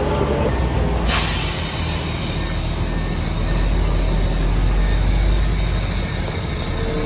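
Heavy diesel earthmoving machinery running steadily, with a sudden loud hiss cutting in about a second in and carrying on.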